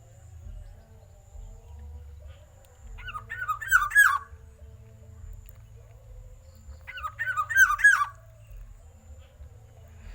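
Black-naped oriole singing: two loud phrases, each about a second long, about three and seven seconds in. Each phrase is a quick run of arched, fluty whistled notes. A low steady hum runs underneath.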